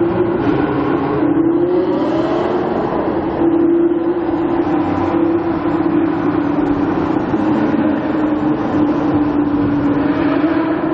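A supercar's engine running, its note holding fairly steady with small rises and dips in pitch.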